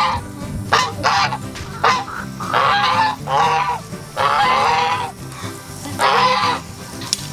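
Farm animals calling loudly and repeatedly, about one short nasal call a second, with a few longer calls in between.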